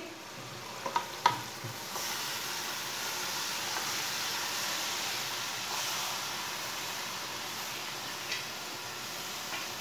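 Chopped mustard greens dropping into a pot of hot oil and tomato masala and sizzling: a steady hiss that swells about two seconds in and slowly dies down. Two light knocks come just before, about a second in.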